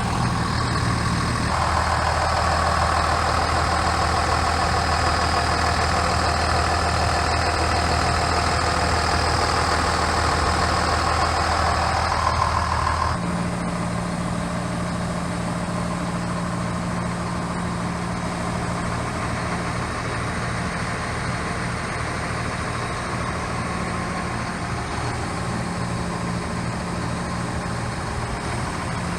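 The FLX 4510's engine running steadily at idle. About 13 seconds in its sound changes and drops slightly, then stays steady.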